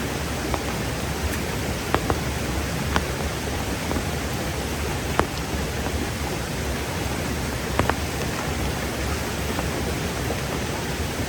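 Heavy rain falling steadily, with a few sharp taps scattered through it.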